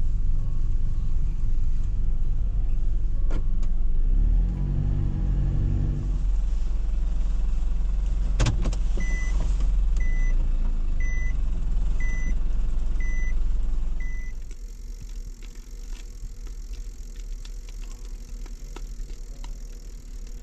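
Nissan Caravan van's engine running with a steady low rumble, with a sharp click partway through and then six beeps about a second apart. The engine stops about two-thirds of the way in, leaving a much quieter background with faint ticks.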